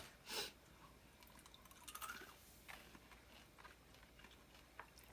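Faint chewing of small candy-coated chocolate eggs, with a short louder crunch or rustle about half a second in and a few small clicks later on.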